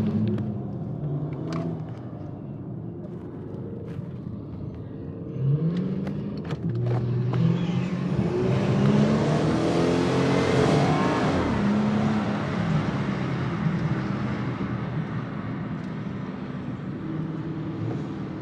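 Car engine revving and accelerating, rising in pitch about five seconds in and swelling to its loudest around ten seconds in as it passes, then easing off.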